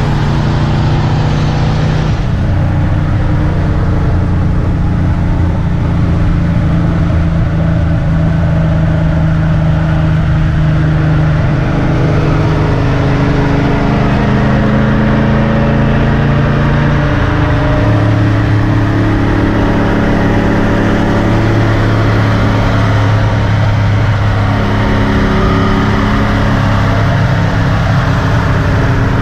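Car engine running at a steady, loud drone with road noise. Its pitch shifts up and down a few times, about two seconds in and again around twelve and seventeen seconds.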